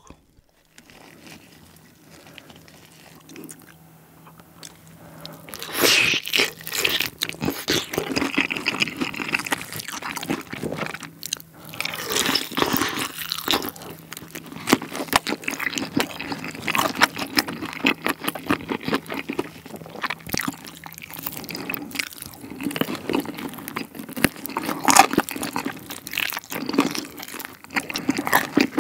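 Close-miked biting and chewing of a sauce-coated fried chicken drumstick. The crunching and chewing starts about six seconds in and keeps on in quick, irregular crackles.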